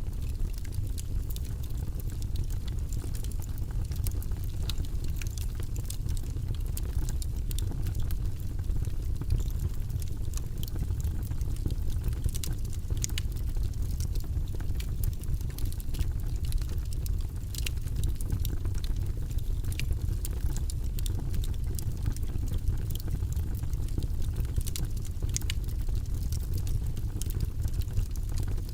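Wood fire burning in a fireplace: logs crackling and popping with frequent sharp snaps over a steady low rumble of flames.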